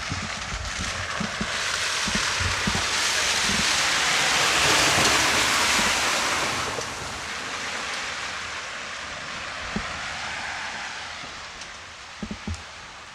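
Heavy rain pouring down, swelling to its loudest about five seconds in and easing off a couple of seconds later, with wind buffeting the microphone.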